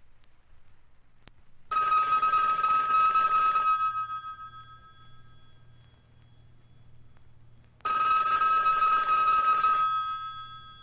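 Telephone bell ringing twice. The rings last about two seconds each, about four seconds apart, and each one dies away briefly after it stops.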